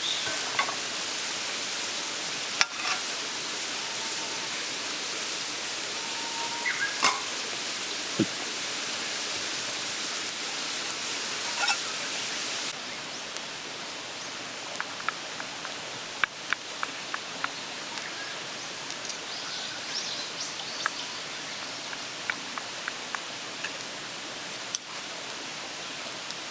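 Mountain stream flowing with a steady rushing hiss, with scattered small clicks and crackles on top. The rushing drops slightly in level about halfway through.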